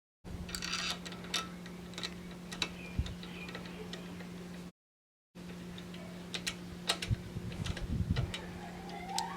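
Scattered small clicks and ticks of bicycle parts and hand tools being handled during assembly, over a steady low hum. The sound drops out into silence twice, at the start and about halfway through.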